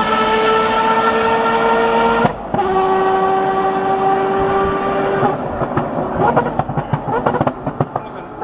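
Mazda 787B four-rotor rotary engine screaming at high revs on track: a high steady note climbing slightly, which breaks off about two seconds in and comes back at a lower pitch. About five seconds in, the note gives way to irregular crackling.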